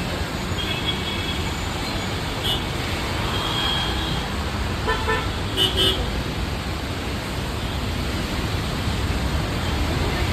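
Steady hiss of heavy rain mixed with road traffic, with vehicle horns honking several times, the loudest blasts just before the middle.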